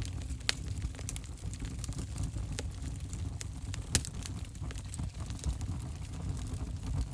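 Wood fire crackling in a fireplace: sharp, irregular pops and snaps over a steady low rumble of burning, with the loudest snap about four seconds in.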